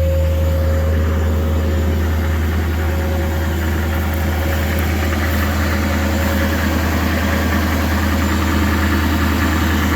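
LLY Duramax 6.6-litre V8 turbo-diesel idling steadily in the first minute after a cold start in sub-zero cold, with a steady whistle over the low engine note that fades out about halfway through.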